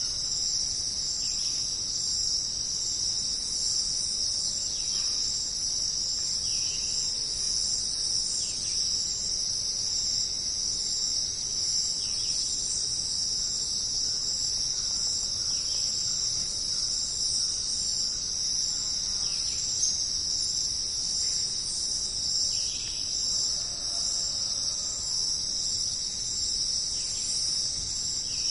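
Steady, shrill chorus of jungle insects, with faint short chirps recurring every second or two beneath it; no thunder is heard.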